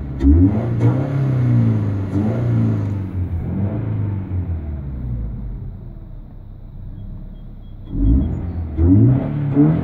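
2013 Scion FR-S's 2.0-litre flat-four engine revved in park, heard from inside the cabin. The pitch rises sharply at the start, holds for a second or two, then falls back to idle, and a second rev rises about eight seconds in.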